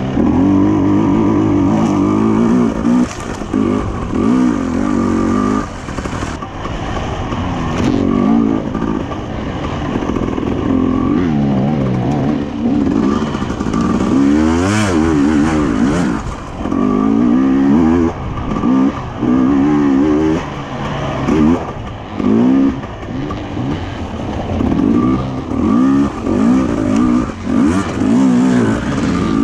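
Enduro dirt bike engine revving up and down over and over, its pitch climbing and dropping every second or two as the throttle is opened and closed.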